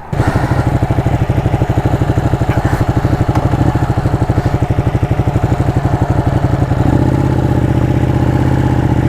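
Ducati motorcycle engine starting up and idling with a lumpy, pulsing beat. About seven seconds in it picks up a little in pitch and runs smoother.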